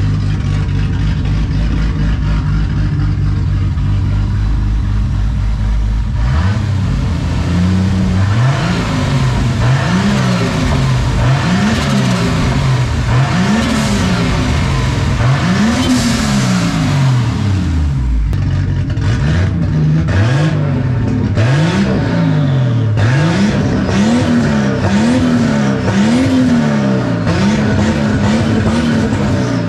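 Mk3 Toyota Supra engine running with the exhaust off at the downpipe: it idles steadily for about six seconds, then is revved about a dozen times, each rev rising and falling in pitch.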